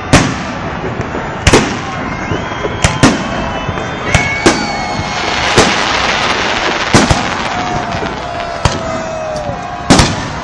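Fireworks salute going off: sharp bangs about every second or so, a dense crackle of bursts in the middle, and thin whistling tones, one falling near the end.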